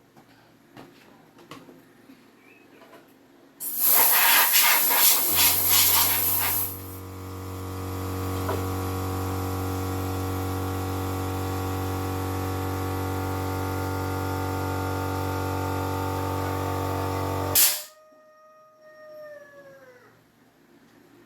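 Electric fan motor being test-run: a loud hissing rush for about three seconds, then a steady electric hum with several whining tones that builds briefly and holds. About thirteen seconds in it cuts off with a click, and a falling whine follows as the motor spins down.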